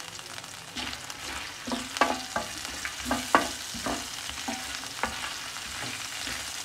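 Chopped garlic and chillies sizzling in oil in a ridged grill pan, with a steady frying hiss. From about a second in, a wooden spatula stirs them, scraping and knocking against the pan's ridges in a run of short strokes.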